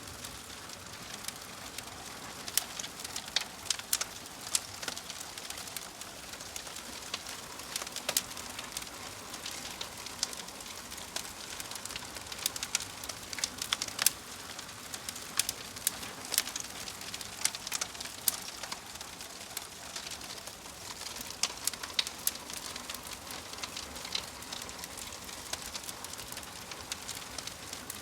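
Wood fire crackling, with frequent sharp pops and snaps over a soft, steady hiss.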